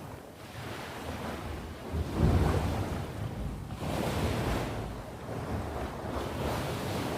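Sea waves breaking and washing in, a continuous surf rising and falling, with the loudest surge about two seconds in. Wind buffets the microphone with a low rumble.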